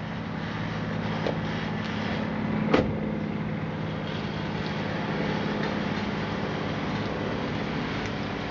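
Ford F-150 running at a steady idle through an aftermarket exhaust with a two-chamber Flowmaster muffler and 4-inch piping. There is one sharp click a little under three seconds in.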